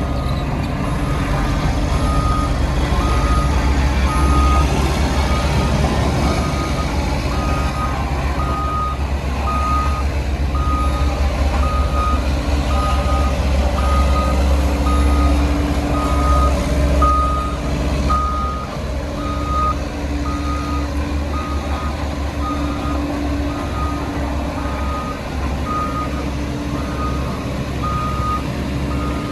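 Backup alarm on a piece of heavy road-construction machinery, beeping evenly a little over once a second, over the steady low rumble of a diesel engine.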